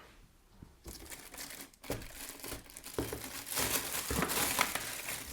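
Packaging crinkling and rustling as parts are handled and lifted from a box, starting about a second in, with a few light knocks.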